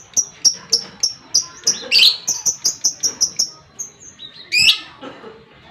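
Lovebird chattering in a long 'ngekek' series: short, sharp, high chirps repeated about three to four times a second, broken by louder harsh screeches about two seconds in and again near the end.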